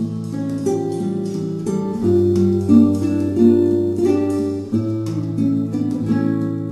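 Instrumental acoustic guitar music: plucked melody notes over held bass notes.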